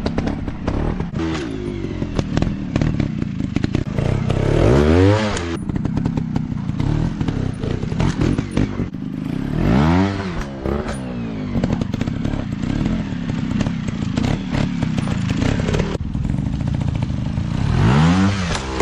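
Small dirt bike engines running, with the throttle opened and closed three times, the pitch rising and falling each time.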